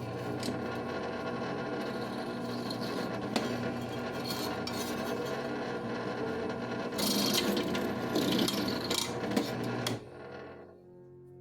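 Power drill boring out a hole in a steel knife tang, the bit grinding through the metal, louder and harsher for a couple of seconds about seven seconds in, then stopping about ten seconds in.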